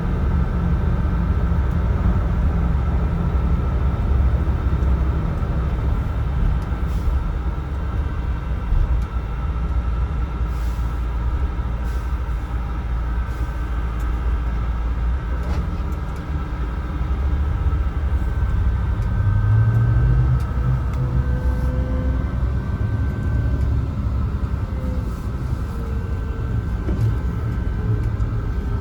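Interior sound of a Mercedes-Benz O307 city bus on the move: a steady low engine and road rumble with a few light clicks and rattles. The engine note strengthens about two-thirds of the way through.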